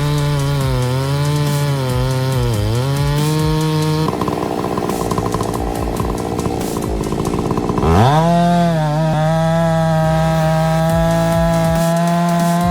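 Two-stroke chainsaw engine running loudly, its pitch wavering for the first few seconds. It then turns rough and noisy for about four seconds, and about eight seconds in it revs up to a steady high pitch.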